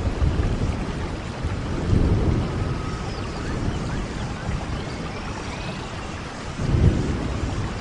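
Steady heavy rain hissing, with low thunder rumbles swelling about two seconds in and again near the end.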